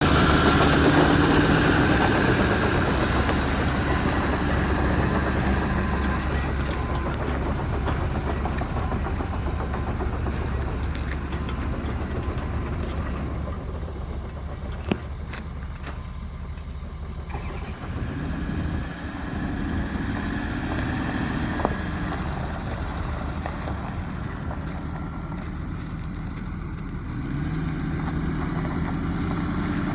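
Ford F-250 pickup engine running steadily, loudest at the start and gradually settling. It is briefly revved about two-thirds of the way through and again near the end, with a couple of single sharp clicks.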